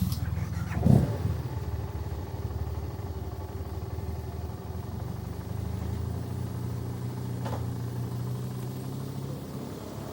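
Motorcycle engine idling steadily after a short rev about a second in.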